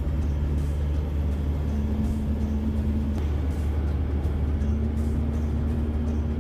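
Heavy truck's engine and road noise heard inside the cab while driving: a steady low drone with a faint steady hum above it.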